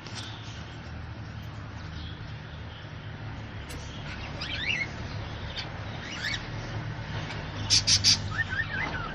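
Small birds chirping in short notes that glide up and down in pitch, with a cluster of three sharp, loud high notes about eight seconds in, over a steady low hum.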